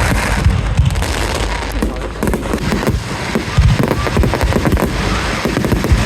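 Fireworks going off: a dense, continuous run of sharp bangs and crackles with deep booms among them.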